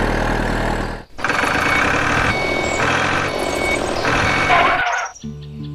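Truck engine running, with a reversing alarm beeping on and off. It cuts out briefly about a second in, and music starts near the end.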